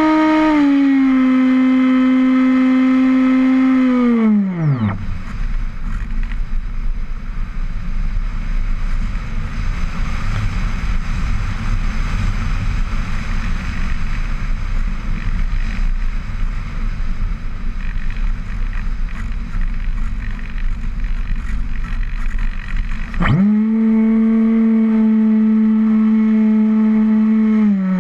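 Motor and propeller of a radio-controlled model aircraft, heard from an onboard camera. A steady hum drops in pitch and winds down to a stop about five seconds in, leaving wind rushing past during a power-off glide. Near the end the motor spins back up with a hum that rises in pitch.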